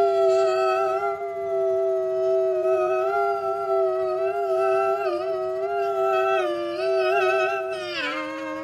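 A person's voice holding one long howl-like note that wavers a little in pitch, then slides down in pitch near the end.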